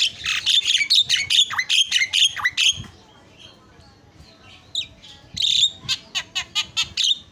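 Javan myna (jalak kebo) calling: a rapid run of harsh squawks and chattering notes for about three seconds, a short pause, then another string of quick, sharp notes toward the end.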